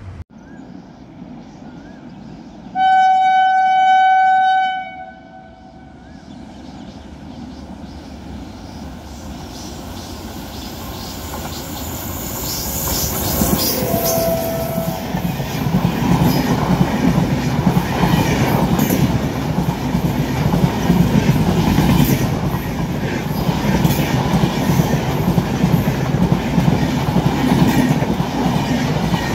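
An Indian Railways electric locomotive's horn sounds one long blast about three seconds in. Then the train draws near and its passenger coaches run past close by, a loud, steady rumble of wheels on the rails that builds up over several seconds.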